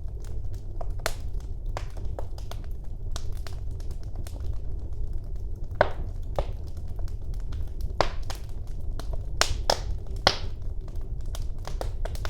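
Wood fire burning in a fireplace: a steady low rumble of flames under irregular crackles and sharp pops, with a cluster of louder pops from about six to ten and a half seconds in.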